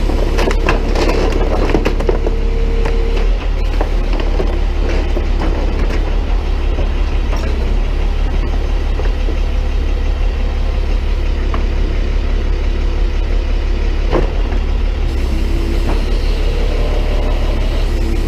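Tow truck engine running steadily, powering the boom that presses a crusher plate down into a trash can. A higher whine sits over the engine for the first three seconds, and there are a few knocks.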